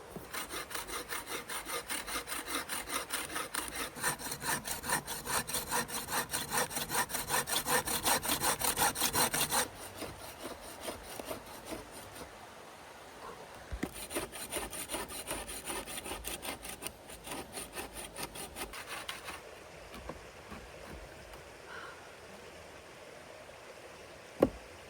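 Hand saw cutting through wood in quick back-and-forth strokes, about four a second, for nearly ten seconds. After a pause comes a second, quieter bout of sawing lasting about five seconds. Near the end there is a single sharp knock.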